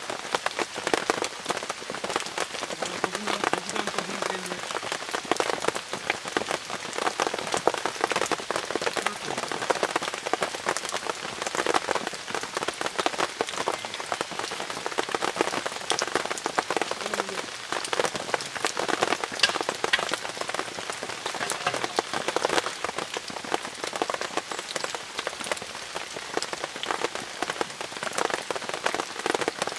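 Steady rain falling on the fabric of a 炎幕 (Engaku) tent, a dense, even patter of drops.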